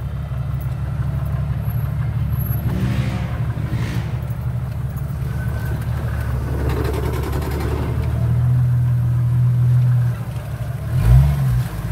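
Jeep Cherokee XJ engine running steadily at low speed while crawling along the trail. It gets a little louder about two-thirds through, then gives a quick rev up and back down near the end.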